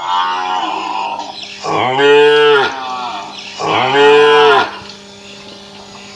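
Cow mooing: a thinner, higher call, then two long, loud, low moos that each rise and fall in pitch.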